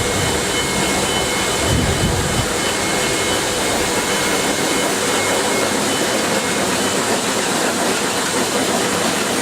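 Steady noise of machinery on an electronics factory floor by the SMT production lines, with two faint high steady tones and a brief low rumble about two seconds in.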